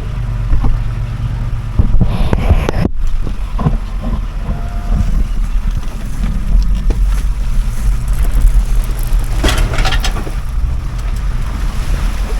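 Off-road vehicle engine running at low speed as it crawls over an obstacle, with wind buffeting the microphone and a few scattered knocks.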